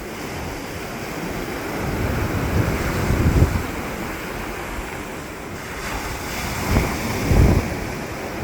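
Ocean surf breaking on a beach, a steady wash that swells twice as waves come in, about two seconds in and again near the end. Wind gusts buffet the microphone.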